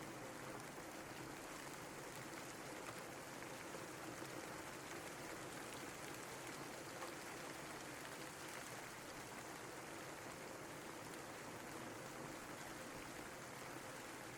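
Steady rain falling, an even hiss with fine pattering of drops and no distinct events.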